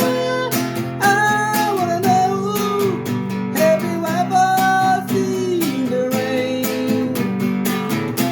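Music: a strummed acoustic guitar keeping a steady rhythm, with a held, gliding melody line above it.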